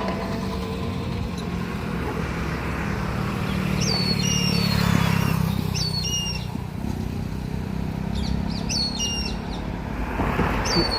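Indian grey hornbills giving short, high squealing calls in several bursts. Under them is the steady hum of a motor vehicle passing, loudest around the middle.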